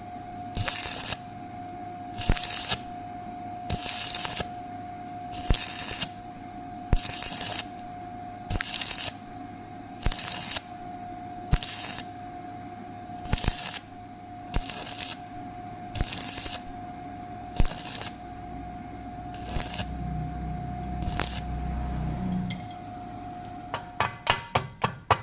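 Welding crackle coming in short, evenly spaced bursts about every one and a half seconds, as in stitch welding. Near the end comes a quick run of ringing metallic taps, like a hammer knocking on steel.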